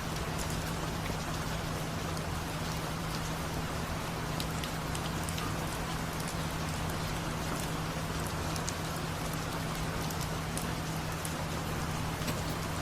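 Steady rain falling, with many small drops ticking among the hiss, over a steady low hum.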